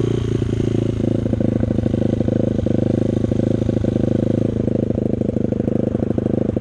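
Rebuilt dirt bike engine running steadily with a fast, even beat, close to the microphone.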